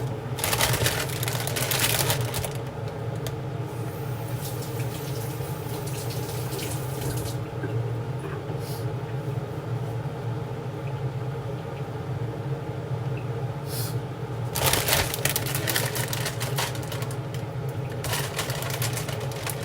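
A steady low hum, with bursts of rustling or handling noise in the first two seconds and twice more in the last five seconds.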